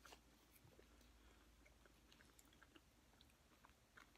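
Faint chewing of food, with scattered soft mouth clicks.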